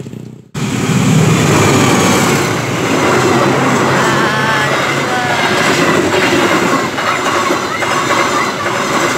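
Passenger train coaches passing at close range, a loud steady rumble of wheels on rails with rhythmic clacking over the rail joints. The sound cuts in suddenly about half a second in.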